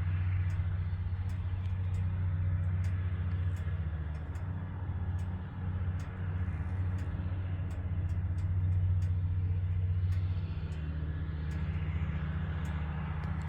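XPRO Hawk 150cc pit bike's single-cylinder four-stroke engine running steadily with a NIBBI high-flow air cleaner fitted, its note dipping briefly about halfway through. Scattered sharp ticks over the engine sound.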